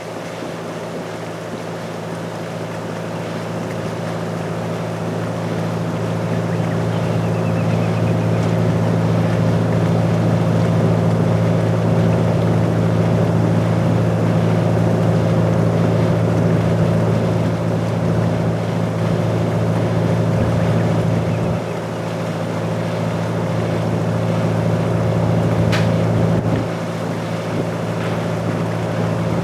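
Sightseeing boat's engine running steadily, a low drone with water and wind noise over it. It grows louder over the first ten seconds and drops a little about two-thirds of the way through and again near the end.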